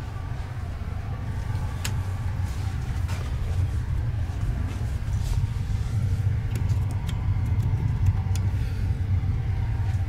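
Running noise of a night train heard from inside a couchette car: a steady low rumble with a few sharp clicks and rattles.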